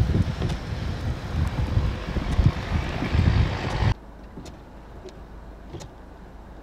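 Blizzard wind buffeting the microphone in heavy gusts. About four seconds in it cuts off suddenly, leaving a quiet, steady low hum with a few faint ticks.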